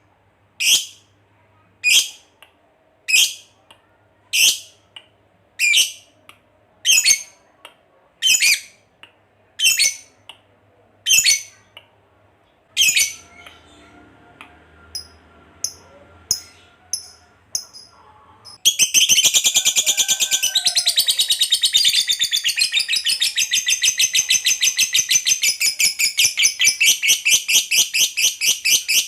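Lovebird giving sharp single chirps about once a second, then, about two-thirds of the way in, breaking into a long, loud, rapid unbroken chattering trill: the 'ngekek panjang' prized in lovebird singing.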